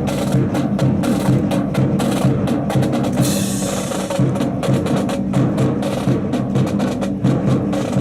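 Drill rifles being slapped, spun and grounded in unison during a rifle drill display: many sharp wooden clacks and knocks, some falling together, some in quick runs, over background music.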